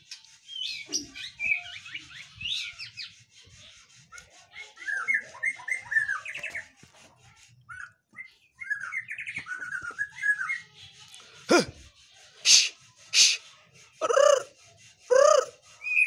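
Caged songbird twittering and warbling in quick chirps, followed from about twelve seconds in by a series of louder, harsher calls about a second apart.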